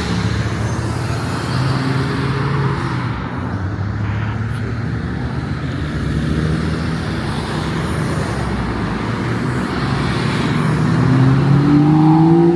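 Car engines running in the low gears as cars pull away, with one engine climbing in pitch near the end as it accelerates.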